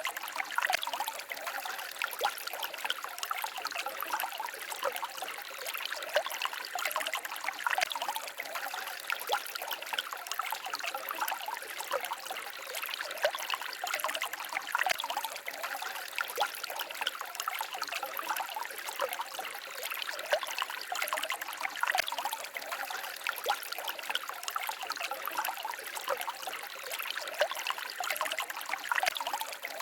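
Small forest stream babbling steadily, a continuous trickle made of many small splashes.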